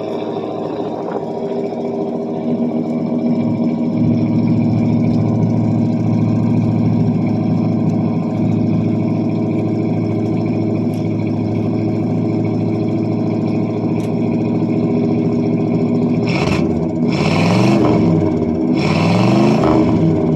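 A 1978 Pontiac Bonneville's 301 V8 running steadily after a cold start, its exhaust going through a single-chamber muffler with no catalytic converter. Near the end the engine is revved several times, the pitch rising and falling. It struggles to keep running, which the owner puts down to a plugged idle circuit in the carburetor.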